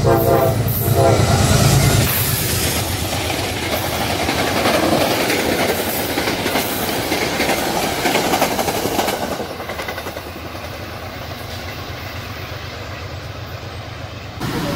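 A train passing on the rails, with steady rumble and wheel clatter. A horn sounds briefly at the start, and the train noise drops to a lower level about nine and a half seconds in.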